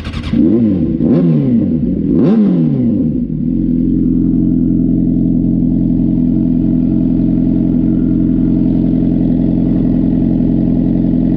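Motorcycle engine revved in three quick blips, each rising and falling in pitch, then running steadily from about three seconds in.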